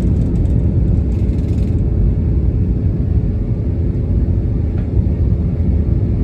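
Airbus A321 jet engines and airframe giving a steady low rumble with a faint steady hum over it; a higher hiss drops away about two seconds in.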